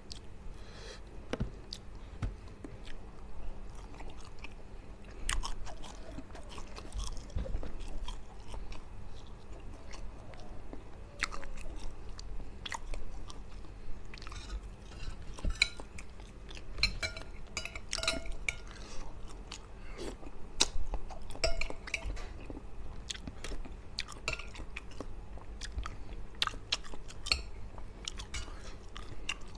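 Close-up chewing and crunching of fish in balado chilli sauce, eaten by hand. Irregular sharp crunches and mouth clicks come more thickly in the second half.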